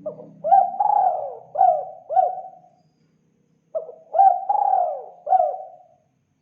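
Spotted dove (tekukur) cooing: two phrases of several throaty notes each, separated by a pause of about a second.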